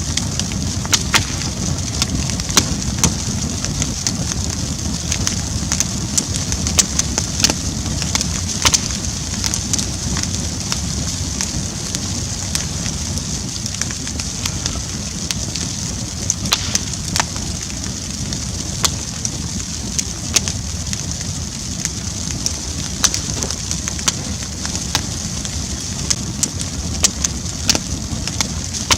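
Bonfire burning: a steady low rumble of flames with frequent irregular crackles and pops of burning wood.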